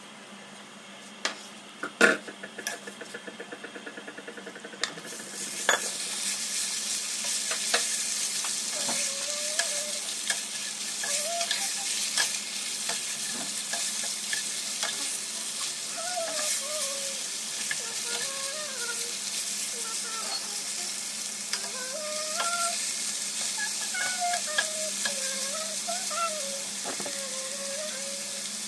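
Fish pieces sizzling as they fry in hot oil in a pot, stirred with a wooden spatula. About two seconds in there is a sharp knock, then a quick run of ticks, and the sizzling starts about five seconds in as the fish goes in, staying steady from then on.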